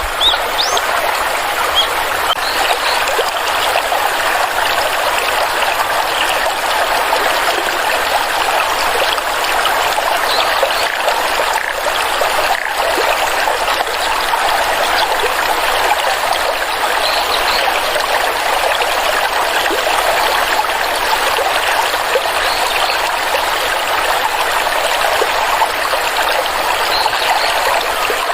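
Stream of water flowing and trickling steadily.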